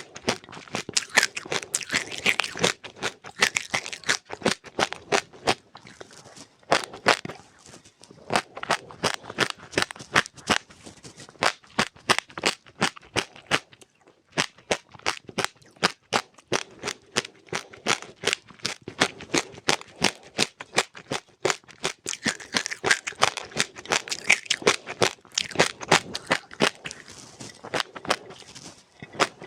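Close chewing of dry seeds and grains with passionfruit: sharp crunches and crackles several times a second, with a brief pause about halfway through.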